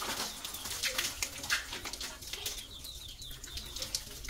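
Birds chirping, with a short run of quick chirps about halfway through, over an irregular patter of sharp ticks.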